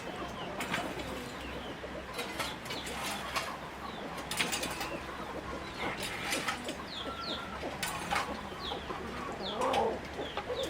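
Poultry calling in short chirps and clucks, mixed with scattered sharp clicks and clatter.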